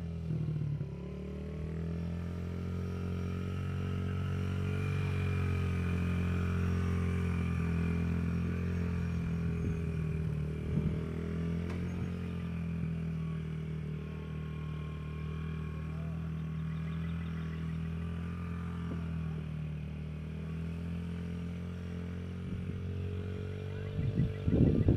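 Dirt bike engine running at a fairly steady speed, its pitch drifting slightly up and down; near the end a few loud low knocks break in.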